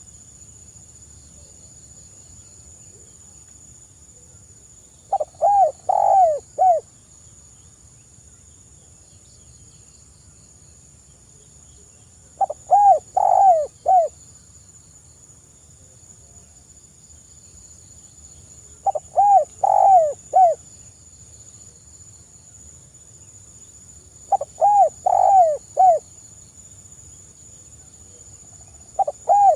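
Spotted dove (tekukur) cooing: a short phrase of four or five quick coos, repeated about every six seconds, five times.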